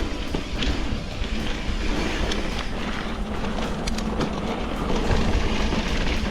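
Steady rumble of wind and road noise from riding, with a few light clicks.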